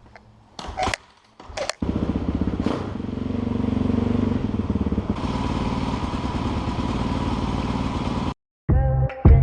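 A few sharp clicks, then a dirt bike engine running steadily for several seconds before it cuts off abruptly near the end.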